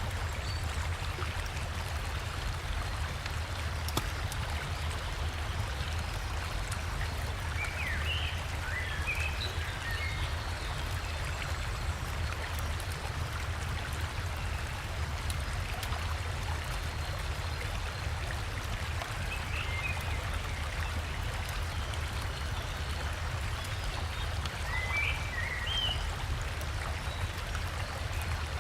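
River water rushing and splashing steadily, with a deep low rumble under it. A songbird chirps in three short bursts, about a third of the way in, about two-thirds in and near the end.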